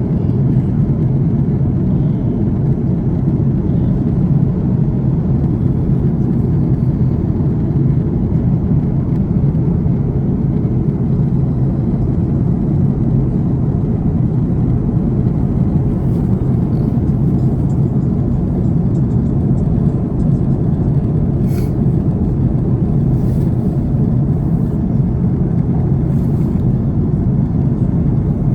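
Airbus A330 cabin noise: a steady, even rumble of engines and airflow heard from inside the airliner's cabin.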